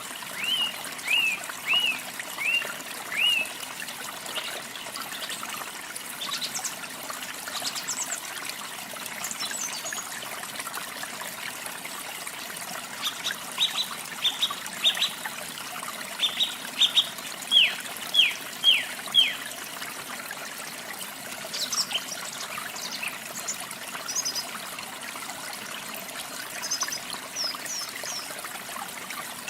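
Steady running water with songbirds singing over it: one bird gives a run of short, downward-slurred whistled notes in the first few seconds and again, longer, in the middle, while other birds add scattered higher chirps.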